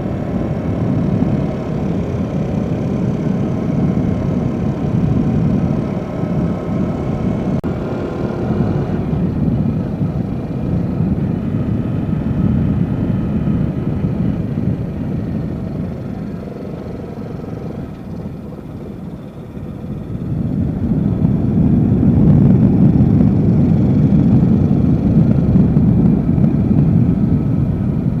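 Yamaha Jupiter Z motorcycle being ridden, its engine running steadily. It eases off about 16 seconds in, then picks up again and runs louder from about 20 seconds in.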